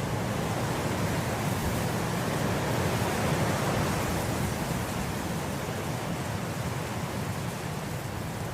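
Wind blowing through grass in a steady rush, swelling to a gust about three seconds in and then slowly easing.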